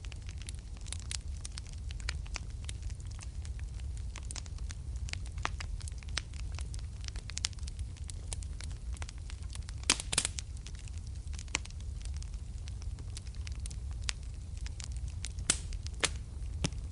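Wood fire burning in a fireplace: a steady low rumble of flames with irregular crackles and pops throughout, a brief cluster of louder pops about ten seconds in and a couple of sharp snaps near the end.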